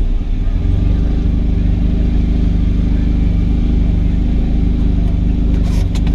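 Turbocharged four-cylinder car engine running at steady revs, its low hum holding one pitch. A short hiss with a few clicks comes near the end.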